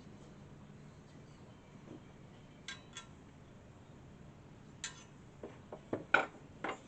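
A few sharp light metallic clinks and knocks of small metal parts being handled. They come singly about three and five seconds in, then in a quick cluster near the end.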